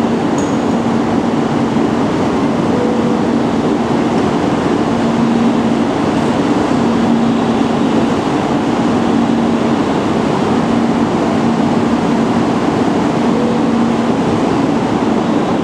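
Tohoku Shinkansen bullet train moving along the station platform: a steady rush of wheel and air noise with a steady low hum running through it.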